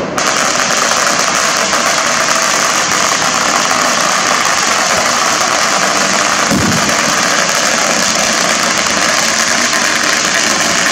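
A hand-held flare burning with a loud, steady hiss that starts suddenly as it catches.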